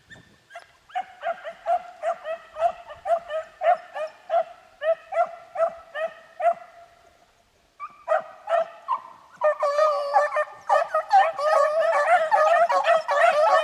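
Beagle hounds baying as they run a rabbit's trail. At first evenly spaced barks, about two a second, then a short break around seven seconds in, after which more voices join and the cry thickens into an overlapping pack chorus near the end.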